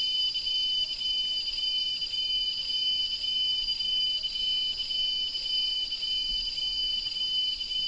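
Tropical cicadas singing: a steady, shrill high drone that pulses about three times a second.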